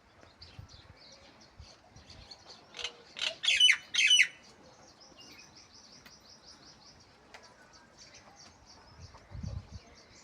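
Birds chirping. About three seconds in comes a loud cluster of sharp high calls, followed by a quick run of short, evenly spaced high notes.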